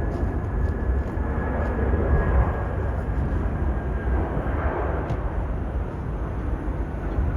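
Jet airliner engines rumbling steadily, with a faint high whine that fades out about four and a half seconds in.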